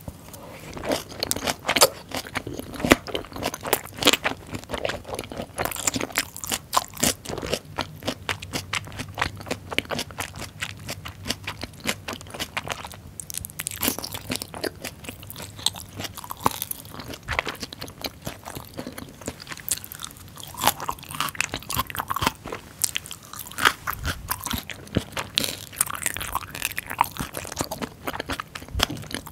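Close-miked chewing of a bite of fermented skate with pork and aged kimchi: wet chewing with dense, crisp crunching all through, pausing briefly about thirteen seconds in.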